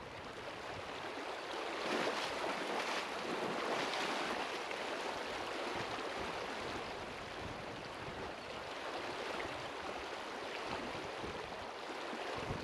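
Flowing river water: a steady rushing wash, a little louder about two to four seconds in.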